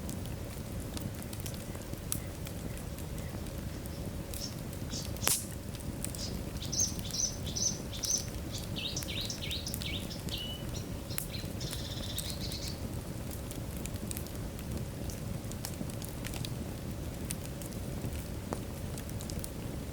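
Wood fire burning in a fireplace: a steady low rush with scattered crackles and pops, one louder pop about five seconds in. Midway a run of short, high chirping notes, some falling in pitch, sounds for several seconds.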